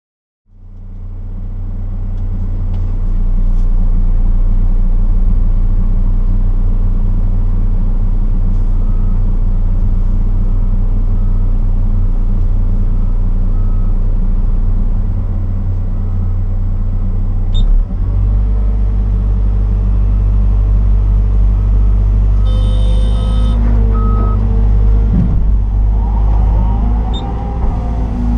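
Liebherr R926 excavator's diesel engine running steadily, heard from inside the cab, fading in at the start. A reversing alarm beeps about twice a second through the middle. Past halfway the engine note steps up; a brief hiss follows, then rising and falling whines come in near the end.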